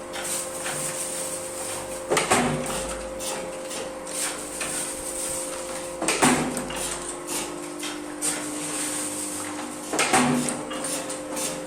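Paper plate (dona pattal) making machine running, its motor humming steadily while the press comes down with a heavy clank about every four seconds, three times, each followed by a short rattle.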